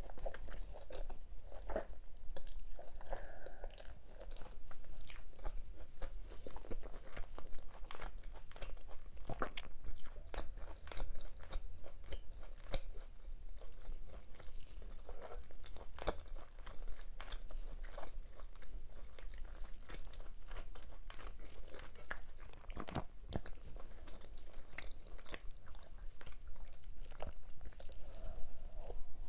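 A person eating, close to the microphone: wet chewing with many irregular crisp crunches and clicks from bites of food.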